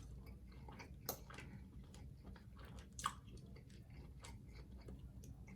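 A person chewing a bite of ribeye steak close to the microphone: faint, wet mouth clicks and smacks, with sharper clicks about a second in and about three seconds in.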